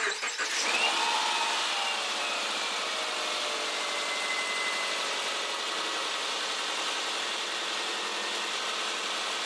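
2010 Subaru Impreza's flat-four boxer engine just started. Its revs flare about a second in and fall back to a steady idle, with the freshly replaced drive belts turning.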